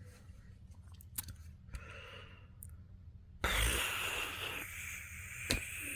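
A few faint clicks, then about halfway through a long, breathy sigh of disappointment starts suddenly and runs on, with a sharp click near the end.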